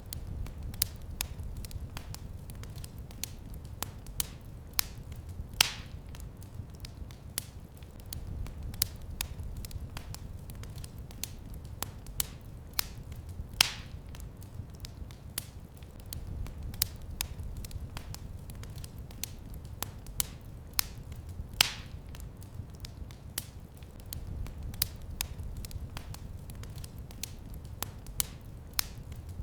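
Wood fire in a fireplace crackling: scattered sharp pops and snaps over a low steady rumble, with a louder pop about every eight seconds.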